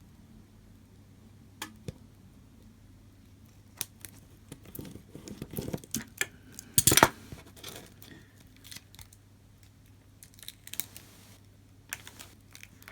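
Small workbench handling sounds of a hand roller pressing optically clear adhesive film onto phone glass: scattered light clicks and taps, a stretch of rustling and scraping about five seconds in, and a sharp knock about seven seconds in.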